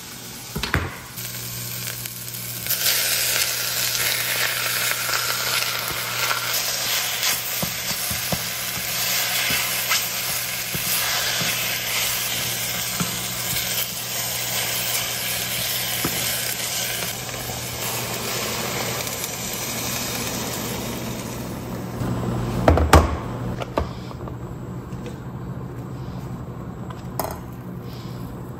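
Crumbled tofu and chopped vegetables sizzling in a stainless steel saucepan on an induction hob while being stirred with a wooden spatula. The sizzle comes in about three seconds in and dies down after about twenty seconds. A single sharp knock follows.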